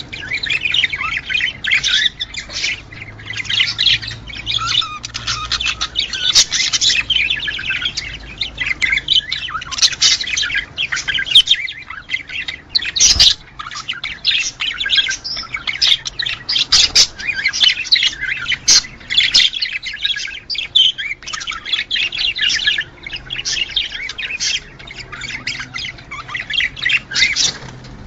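A flock of budgerigars chattering and warbling without a pause, with dense, fast chirps and squawks. This is the busy breeding-season chatter played to encourage budgie pairs to mate. A sharp click or knock comes about 13 seconds in.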